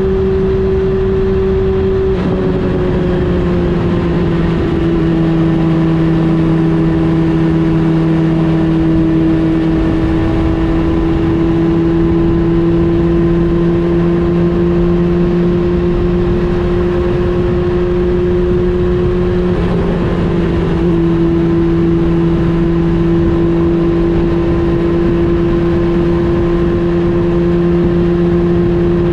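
Honda CB400 Super Four Revo's inline-four engine running at a steady cruising speed, heard from on board, over a steady rush of noise. The pitch eases down a little about two seconds in and changes briefly around twenty seconds in.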